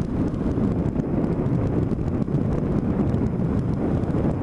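Motorcycle riding at road speed, its engine and tyre noise mixed with wind buffeting the microphone in a steady rumbling rush.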